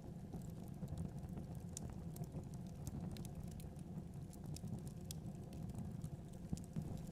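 Logs burning in a fireplace: irregular small crackles and pops over a low, steady rushing of the fire.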